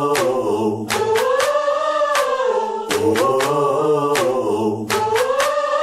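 Layered wordless vocals humming a short bluesy phrase a cappella, sung twice, with sharp clicks scattered through it.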